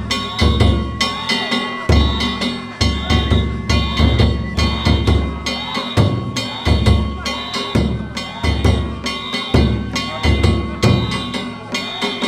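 Danjiri festival narimono: taiko drums beaten in a steady repeating rhythm with ringing hand gongs (kane) over them.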